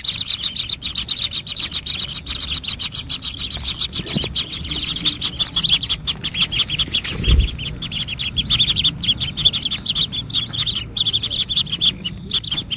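Birds chirping rapidly and without pause, short high chirps at about ten a second. A single low thump about seven seconds in.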